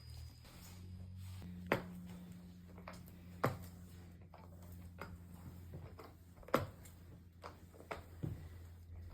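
Wet mop being worked over a wood floor: a few scattered sharp knocks and taps, the loudest about two, three and a half and six and a half seconds in, over a steady low hum.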